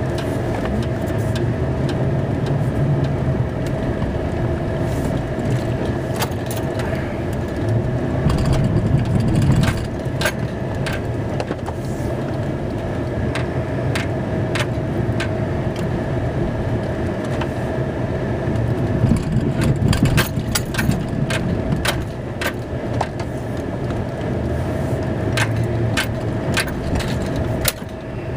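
Plow truck engine running, heard from inside the cab while plowing snow. The engine swells louder twice, with a steady whine underneath and scattered clicks and rattles.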